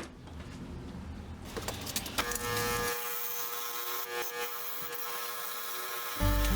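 Wire wheel running and scrubbing rust off a small steel pry bar: a steady motor tone with rough scratching, starting about two seconds in.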